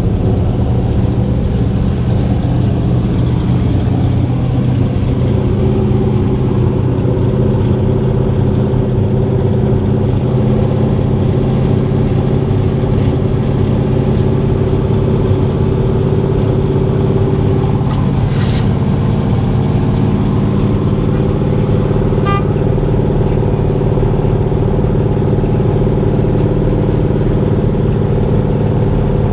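A car engine running steadily at idle, with a short sharper sound about 18 seconds in.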